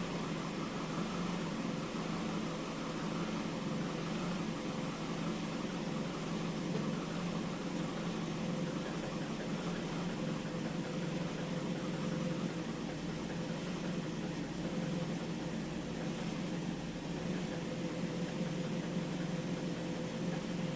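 Mercedes-Benz W124's 2.0-litre M102 four-cylinder engine with KE-Jetronic injection, idling steadily.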